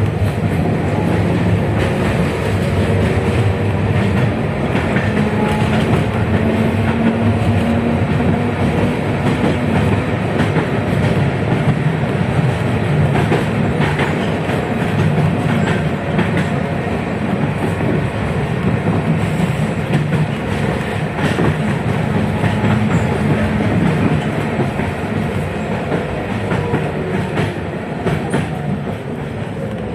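A 71-619KT tram running along the track, heard on board: a steady rumble of wheels on rail with repeated clicks over rail joints. Faint whines from the KR-252 traction motors rise and fall in pitch. The sound grows quieter near the end.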